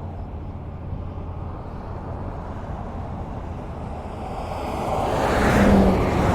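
Highway traffic with steady tyre and engine rumble; near the end a vehicle passes close, its sound swelling to a peak and fading.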